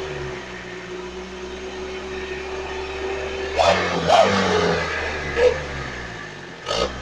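Vehicle engine idling through an aftermarket exhaust with a deep 'guk guk' note, given a few short throttle blips about halfway through and again near the end.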